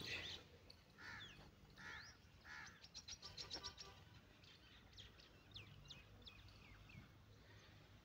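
Faint bird calls in near quiet. There are three short harsh calls about a second apart, then a quick run of high chirps around the middle, and scattered thin gliding chirps after that.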